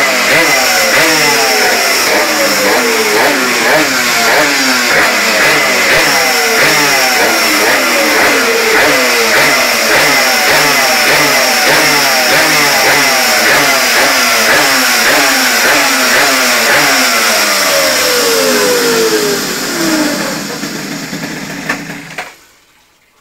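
Polini 911 pocket bike's small two-stroke race engine revving, blipped over and over with the pitch dropping after each blip. It dies down near the end and cuts off abruptly.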